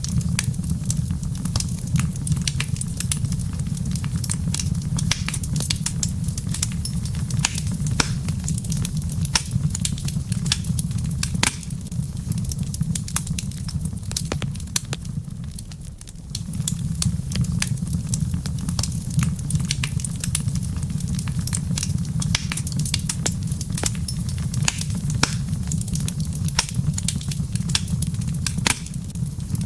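Wood fire in a fireplace crackling, with many sharp pops and snaps over a steady low rumble that dips briefly about halfway through.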